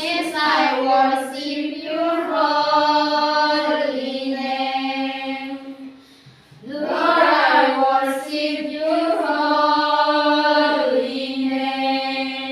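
A solo voice singing unaccompanied in long held notes. It sings two phrases, with a short break for breath about six seconds in.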